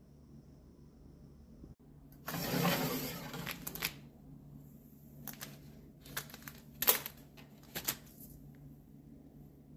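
Handling a Nespresso Vertuo coffee machine and pod: a rustling clatter about two seconds in, then a few sharp clicks and knocks.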